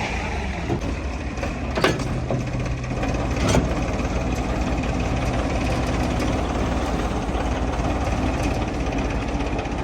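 Heavy diesel engines running steadily, with two sharp clacks about two seconds and three and a half seconds in.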